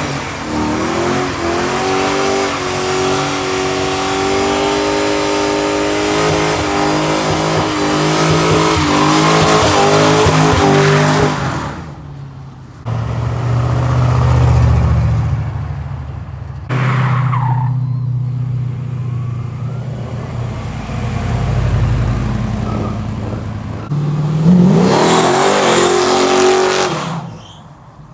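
Loud car engines and exhausts heard in separate short takes. First a car's engine runs with a steady, slightly rising note, then low deep rumbling from passing cars, then an engine revving up near the end.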